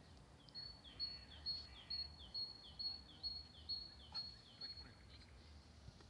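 A small songbird singing a high two-note phrase, a short level note then a falling one, repeated about twice a second for some four seconds, over steady low background rumble.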